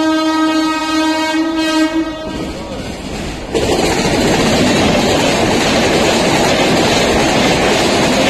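A WAP-7 electric locomotive's horn sounds one long, steady blast that stops about two seconds in. About a second later the express train's coaches rush past at speed, a loud, even rush of wheels on rail.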